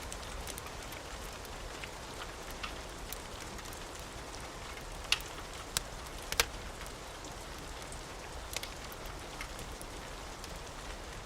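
Steady rain hiss with a wood fire crackling, a few sharp pops standing out, the loudest around the middle.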